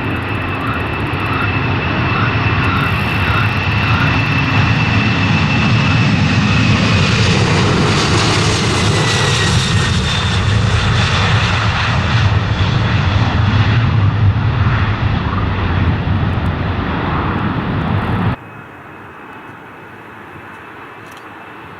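Jet airliner engines passing close by: a loud rumble builds with a high whine that falls in pitch as the aircraft goes by. The sound cuts off suddenly near the end, leaving a much quieter background with a faint steady high tone.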